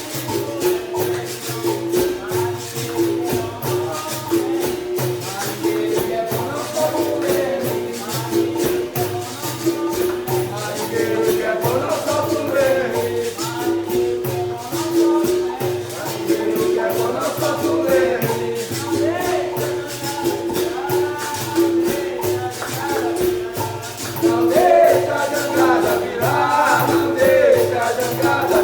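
Capoeira bateria music: a berimbau's note pulsing in a steady rhythm with a jingling pandeiro and rattles, and voices singing over it, the singing strongest about halfway through and near the end.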